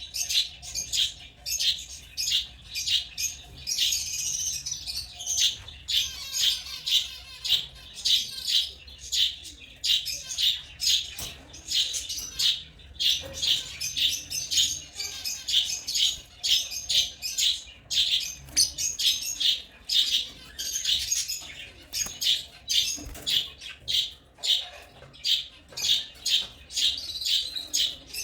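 African lovebirds chirping: an unbroken stream of short, high-pitched calls, several a second.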